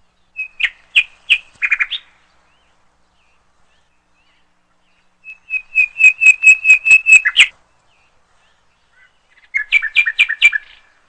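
A bird singing three phrases of quick, repeated high notes, about five or six a second. The middle phrase is the longest and loudest, and each phrase is separated by a few seconds of quiet.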